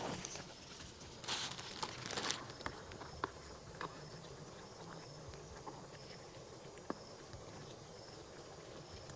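Light rustling movement with two brief brushing noises about a second in, then scattered small clicks and ticks.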